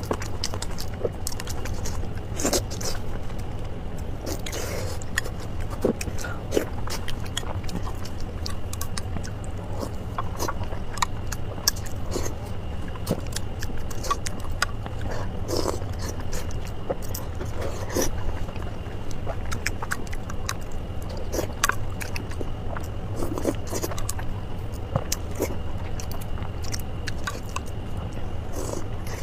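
Close-up eating of soft pig brain in chili oil: wet chewing and mouth smacks with scattered sharp clicks from utensils, over a steady low hum.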